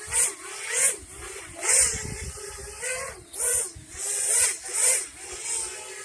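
Parrot Bebop 2 quadcopter's motors and propellers whining as it comes in to land, the pitch rising and falling repeatedly as the motors adjust speed, with several short surges of hiss.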